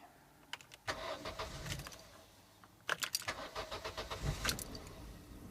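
Keys jangling, then the starter cranks a 2003 Vauxhall Zafira's petrol engine about three seconds in; it catches and runs on into a steady idle near the end. This is the first start after a new EGR valve was fitted to cure stalling and a falling idle.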